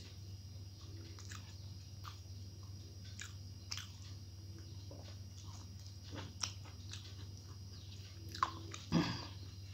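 Close-up eating sounds: a person chewing and smacking mouthfuls of rice and fried pointed gourd eaten by hand, with scattered soft clicks and a few louder smacks near the end. A steady low hum runs underneath.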